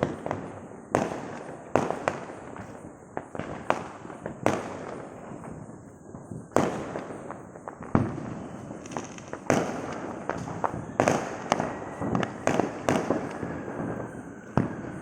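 Firecrackers going off one after another: sharp bangs at irregular intervals, roughly one or two a second, each with a short echoing tail.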